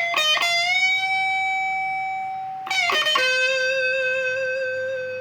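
Slow guitar melody played one note at a time: a few quick picked notes, then long held notes that ring on, the last one with a slight vibrato.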